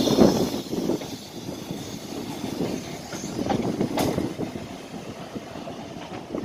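Train running along the rails, its wheels rumbling and clicking over rail joints, louder in the first second and then easing.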